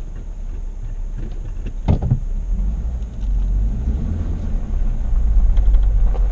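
Car rumbling low as it reverses, growing louder, with a single knock about two seconds in.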